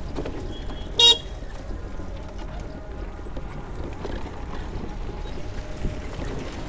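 A vehicle horn gives one short beep about a second in, over a steady low rumble.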